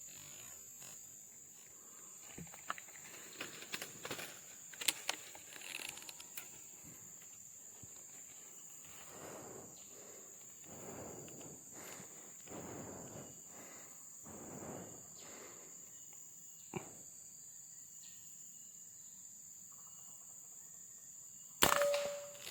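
Outdoor ambience with a steady, high-pitched insect drone. Midway there is a series of soft, short rushing swells, and a sharp knock comes near the end.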